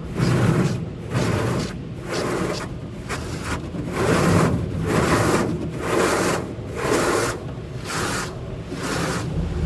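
Automatic drive-through car wash working over the car, heard from inside the car: rhythmic swishing and rubbing surges coming about every second.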